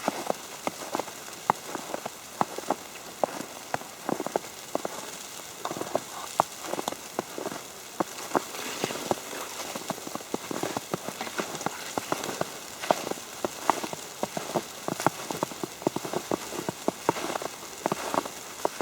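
Wet snow falling on an umbrella: many irregular light taps over a steady hiss, like rain on a surface.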